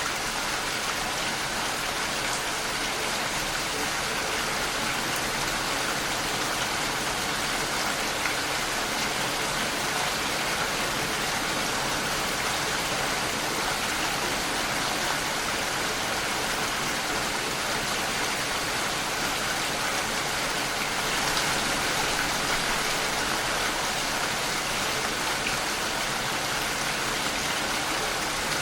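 Steady rainfall, an even hiss of many drops falling on surfaces without a break.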